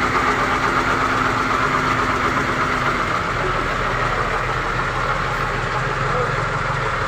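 Old Mitsubishi Fuso truck's diesel engine running steadily, with a low hum that shifts pitch about three seconds in.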